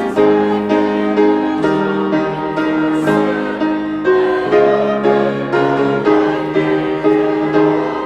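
Piano playing, with notes and chords struck about twice a second, each fading after it is struck.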